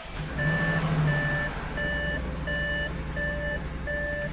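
A 2016 Audi A7's 3.0 TFSI supercharged V6 idling just after starting, with a misfire on cylinder 6. Over the engine, the car's warning chime beeps six times in an even rhythm, about one and a half beeps a second.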